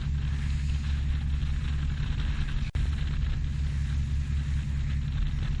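Motorsailer's inboard diesel engine running steadily under way, a low even drone with a momentary break near the middle.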